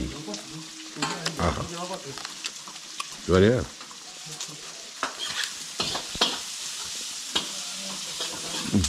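Chilli chicken frying in a pan with a steady sizzle, a metal ladle stirring and clicking against the pan several times in the second half. A man's voice makes a few short hums, the loudest about three seconds in.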